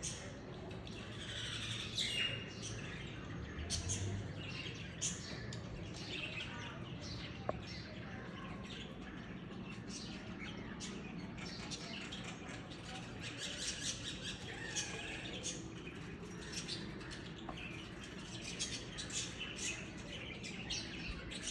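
Small birds chirping: many short, high calls overlapping, busier in the second half, over a steady low background rumble.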